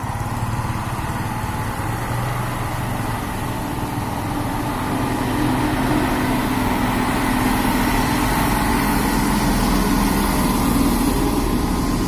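Heavy truck's engine running steadily, getting louder about five seconds in.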